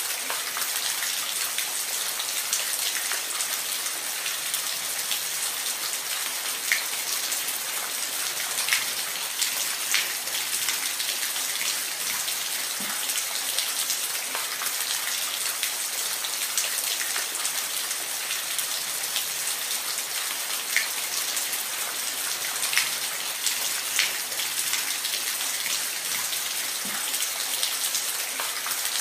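Waterfall: a steady rush of falling water, with scattered sharper splashes and drips standing out from it.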